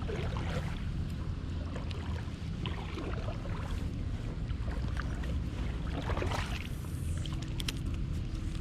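Steady low rumble of creek water and wind buffeting a GoPro's microphone, with scattered small clicks and splashes.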